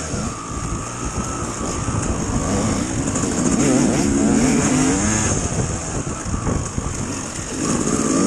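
Dirt bike engine running under way, its pitch rising and falling as the throttle is worked, over a steady rumble of wind and riding noise.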